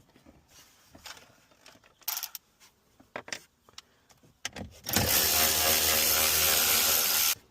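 Light clicks of parts being handled. About five seconds in, a handheld power driver runs steadily for about two and a half seconds, likely backing out a dash fastener, then stops suddenly.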